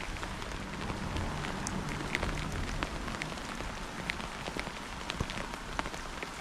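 Steady rain falling, a constant hiss with many separate drops ticking close by, and a low rumble underneath in the first half.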